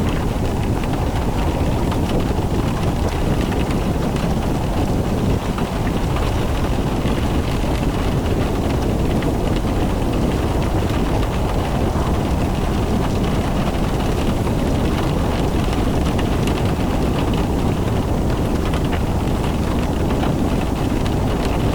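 Car driving in the rain: a steady low rumble of engine and tyres on a wet road, with rain and wind noise over it.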